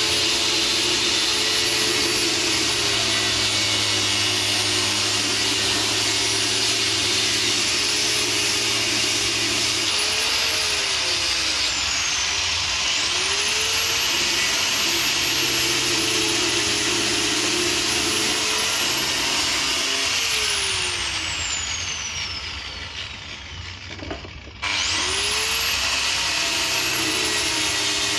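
Electric power tool's motor running with a high whine, slowing down about ten seconds in and spinning back up, then winding down again and almost stopping before it is switched back on and revs up.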